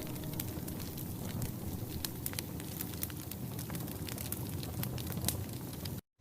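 Wood fire crackling: a steady low rush of flames with frequent sharp pops and snaps at irregular intervals. The sound cuts off abruptly near the end.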